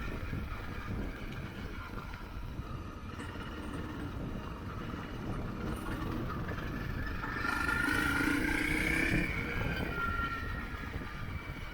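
Motorcycle engine running while riding, under a steady low rumble of wind and road noise. About two-thirds of the way through, the engine note rises and gets louder as the bike accelerates, then settles back.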